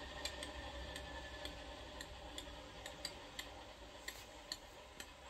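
Sound decoder of an Accurascale Class 37 model locomotive playing its diesel shutdown through the model's small speaker. The engine sound runs faintly and slowly dies away, with light regular ticking about twice a second.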